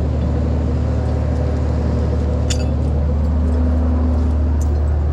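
Tow truck engine idling steadily with a constant low hum, and one short metallic clink about two and a half seconds in.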